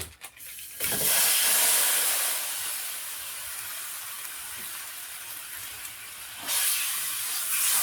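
Lo mein sauce from the meal kit hitting a preheated skillet and sizzling hard, a loud hiss that bursts out just under a second in, eases off, then flares up again about six and a half seconds in.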